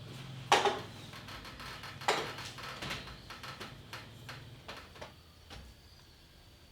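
A series of knocks: two loud ones about a second and a half apart, then lighter, quieter knocks trailing off, over a faint low hum that stops partway through.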